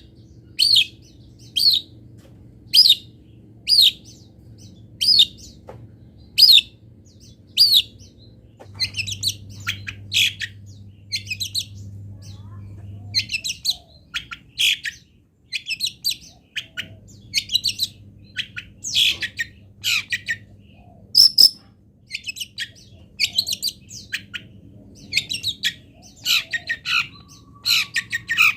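Long-tailed shrike (cendet) singing. It starts with a run of short, sharp, evenly spaced calls about once a second, then breaks into faster, varied chattering phrases. A faint steady low hum runs underneath.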